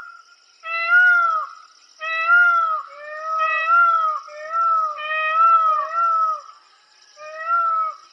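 An animal giving a series of about seven loud, meow-like wailing calls, each rising and falling in pitch and lasting under a second, with short gaps between them.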